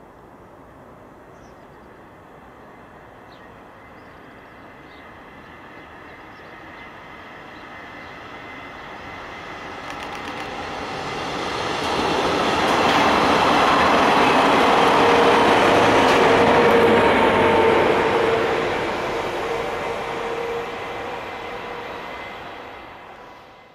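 Passenger train of coaches passing on an electrified main line: its rumble grows from a distance, is loudest for several seconds as it goes by with a steady hum, then fades away.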